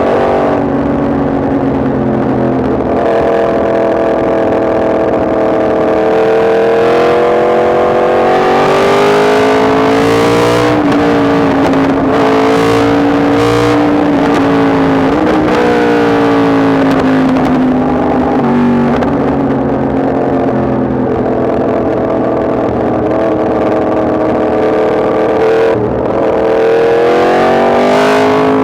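Yamaha MT-10 SP's crossplane inline-four engine on the move, its note climbing and falling several times as the rider works the throttle and gears, with a brief drop about a second from the end before it pulls again.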